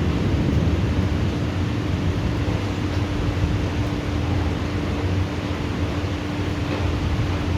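Steady heavy rain in a thunderstorm: a dense, even hiss over a low rumble, with a faint steady hum underneath.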